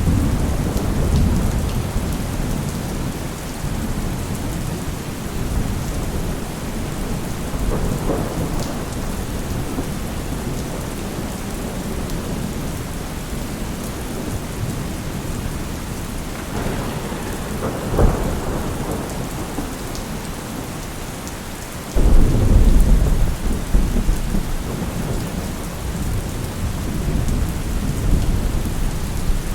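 Steady rain under a thunderstorm, with repeated rolls of thunder: a sharp crack a little past the middle, then the loudest rumble breaking in suddenly soon after and rolling on.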